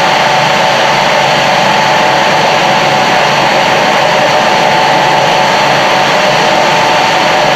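Radial (centrifugal) fan, a VTs 14-46 No. 3.15 driven by a 1.5 kW, 1450 rpm electric motor, running steadily: a loud, even rush of air with a steady whine.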